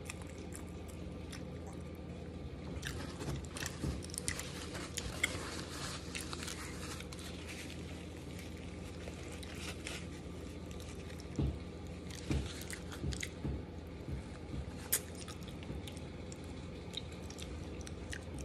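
Close-up eating: mouth-sounds of chewing, with two spells of crisp crunches as Ruffles ridged potato chips are bitten and chewed, the first about three seconds in and the second about eleven seconds in, over a steady low hum.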